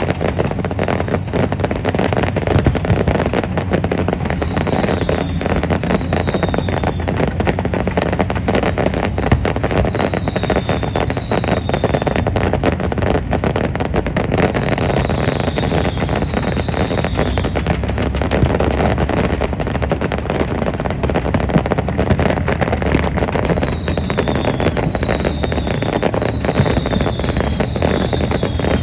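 Fireworks display: a loud, continuous mass of crackling and popping bursts, with short high falling whistles at times.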